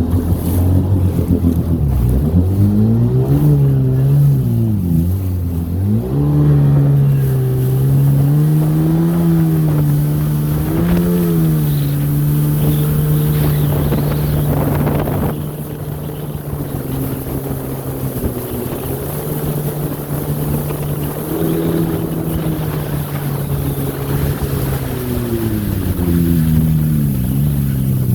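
Two-stroke twin engine of a 1995 Sea-Doo XP 717 personal watercraft running under way during break-in. It revs up and down with the throttle several times, holds a steady pitch through the middle, then eases off near the end, with wind buffeting the microphone.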